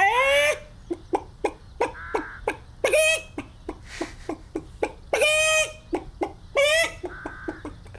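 A person's voice imitating a chicken: short clucks in a steady run, broken by four longer drawn-out squawks, the first rising in pitch.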